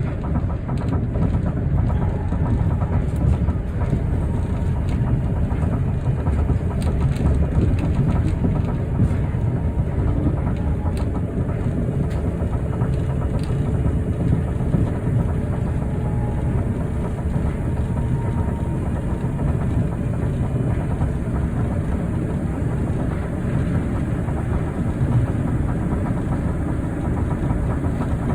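Osaka Metro New Tram, a rubber-tyred automated guideway train, running between stations, heard from inside the car: a steady low rumble of tyres and drive, with a few faint clicks.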